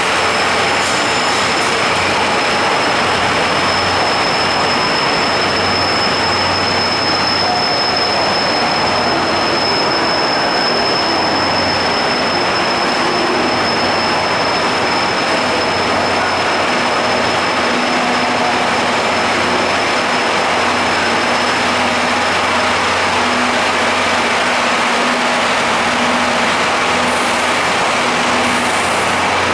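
Steady running noise of a locomotive-hauled passenger train's old coaches on the rails, with a thin high whine over the first two-thirds that fades out.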